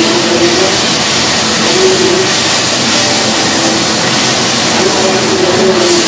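Onion, tomato and ginger-garlic masala sizzling in a wok as it fries, stirred with a wooden spatula: a steady, even hiss. It is being fried to cook out the raw taste of the onion and ginger-garlic.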